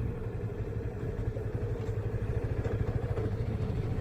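Motorcycle engine idling steadily, holding an even pitch with no revving.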